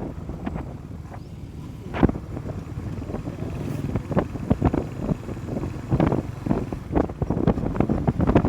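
Wind buffeting the microphone on a moving motorcycle, with a low vehicle rumble underneath. Irregular sharp gusts come through, the strongest about two seconds in.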